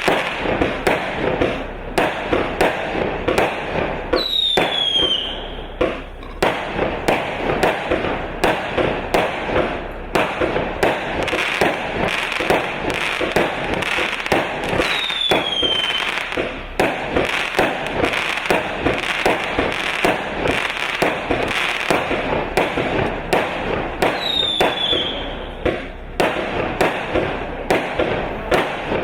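A 100-shot fireworks cake of 0.6-inch tubes firing without a break, about two shots a second with crackling between them. Three short falling whistles sound over it, about ten seconds apart.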